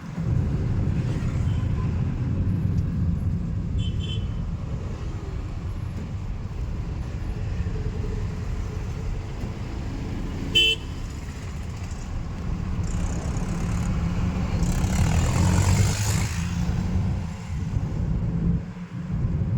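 Road traffic noise with a steady low rumble of vehicles. Short horn toots sound about four seconds in and again near eleven seconds, and a vehicle passes loudly about fifteen seconds in.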